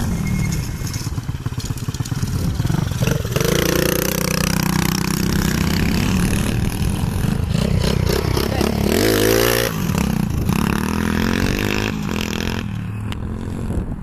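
Small four-stroke pit bike engines revving hard under acceleration, the pitch climbing and falling repeatedly. There is a strong rising run about nine seconds in, and the sound thins out near the end.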